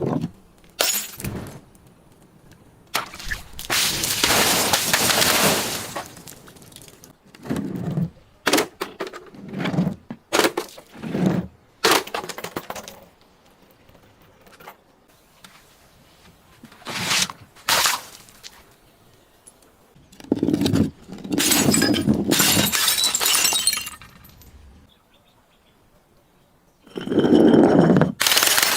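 Glass and other brittle objects being crushed and broken: a series of crunching, shattering bursts, some short single cracks and some drawn-out crunches lasting two or three seconds.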